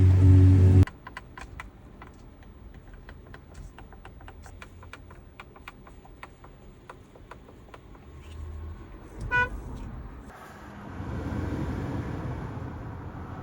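2024 BYD Seagull's horn sounding in a loud, steady blast that cuts off just under a second in. A run of light clicks follows, then a short electronic beep about nine seconds in and a low steady rumble near the end.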